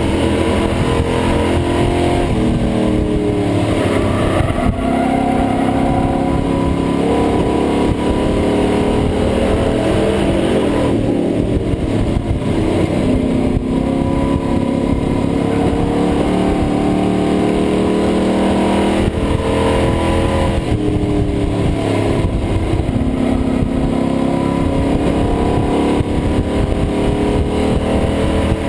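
Pro Truck race truck engine heard from inside the cab under racing load, its revs dropping and climbing back again in a repeating cycle, over a constant rush of wind and road noise.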